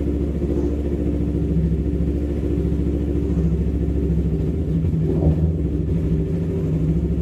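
Yamaha MT-25's 250 cc parallel-twin engine running steadily, its note shifting slightly about halfway through.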